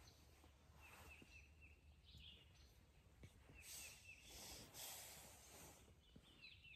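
Faint songbird singing a short phrase of quick high notes, repeated three times at roughly three-second intervals, over a low rumble, with a brief swell of hissing noise in the middle.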